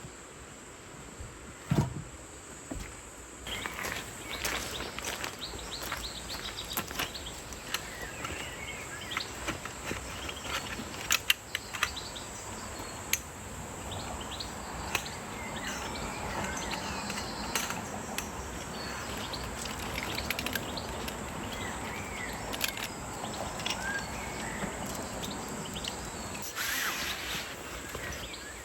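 Outdoor forest ambience: small birds chirping now and then over a steady background hiss, with scattered sharp clicks and knocks and a dull thump about two seconds in.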